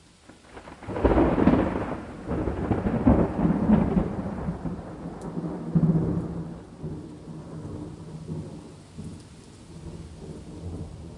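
A long roll of thunder beginning about a second in. It rumbles in several surges, then dies away gradually toward the end.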